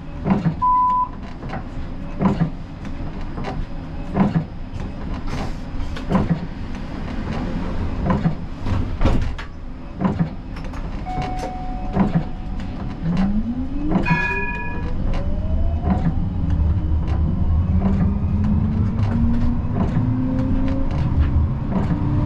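Siemens Combino tram in its cab, with a short beep near the start and a light click about every two seconds. In the second half the rising whine of the electric traction drive climbs in pitch as the tram gathers speed, with a brief three-note chime partway through.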